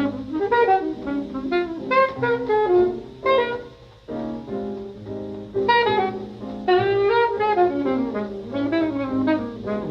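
Jazz music: a saxophone playing fast, winding runs of notes that rise and fall.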